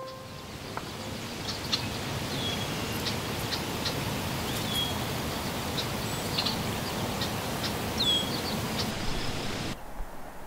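Small birds chirping and whistling in scattered short calls over a steady rustling background outdoors among pines; the outdoor sound drops away sharply near the end.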